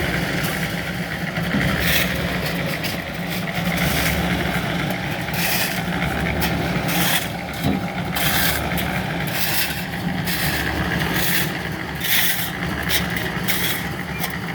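A motor runs steadily throughout, with irregular scraping strokes from tools working concrete.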